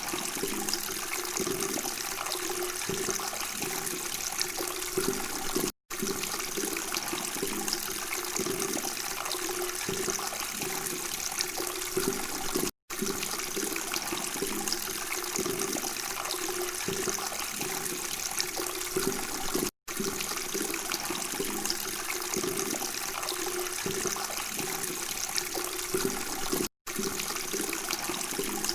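Running water, a steady continuous flow, broken by a brief silent gap about every seven seconds.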